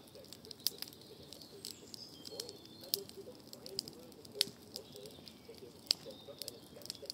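Wood campfire crackling, with irregular sharp pops over a steady low hiss.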